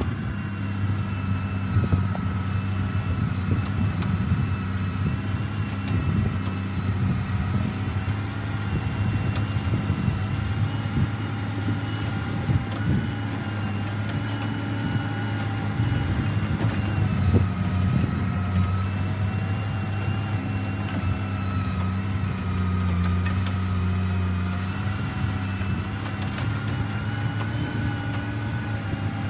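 Heavy earthmoving machine's diesel engine running steadily, with a thin whine above it that wavers slightly in pitch.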